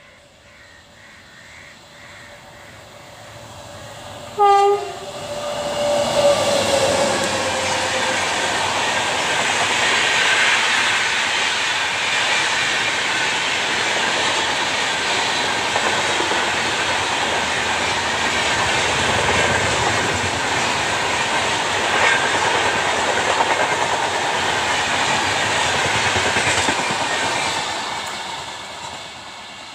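Indian Railways express hauled by a WAP7 electric locomotive approaching and running through at speed: one short horn blast about four seconds in, a tone falling in pitch as the locomotive passes, then the steady rush and clickety-clack of LHB coaches on the track for some twenty seconds, fading near the end.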